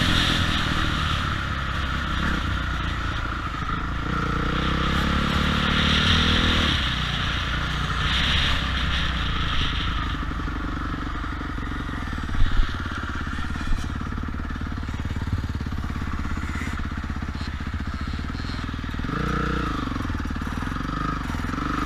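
Motocross dirt bike engine running and revving, its pitch rising as it accelerates and falling back; a few sharp knocks a little past halfway.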